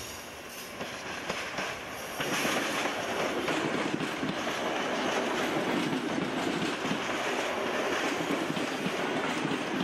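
Netherlands Railways Mat '64 electric multiple unit passing close by, its wheels rumbling and clattering over the track and points. The sound gets much louder about two seconds in as the carriages draw level, then holds steady.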